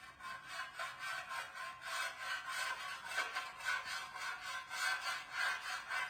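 Rhythmic back-and-forth scraping strokes of hand abrading on metal, about two to three strokes a second, as the motorcycle exhaust body is worked down during its restoration.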